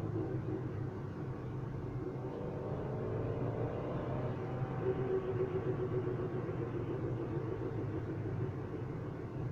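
Car engine running steadily, with an even hum whose pitch rises slightly a few seconds in.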